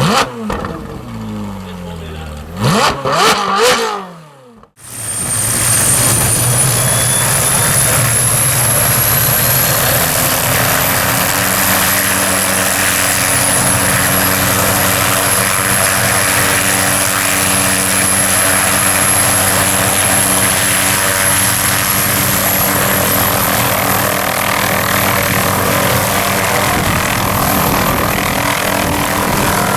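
Car engines revving for the first few seconds. Then a helicopter's turbine and rotor run steadily, with a high thin whine that climbs over several seconds and then holds, as the helicopter winds up to leave.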